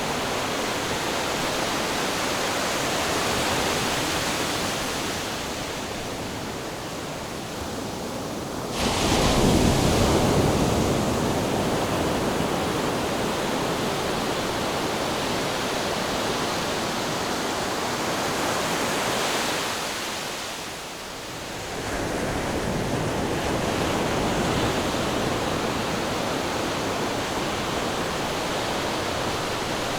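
Ocean surf: a continuous wash of waves, with a wave breaking suddenly about nine seconds in and another about twenty-two seconds in, after a brief lull.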